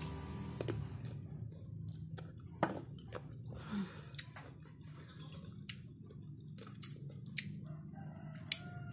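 Chewing crunchy unripe green mango: a few scattered crisp crunches over a low steady hum, with a faint bird call near the end.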